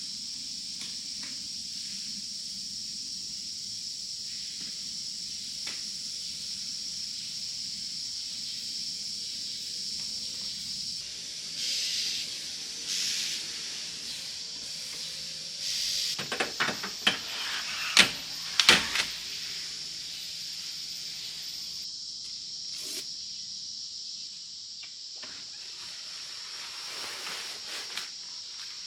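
Steady high-pitched drone of jungle insects such as cicadas. Over it, a short run of knocks and clatter comes about two-thirds of the way through.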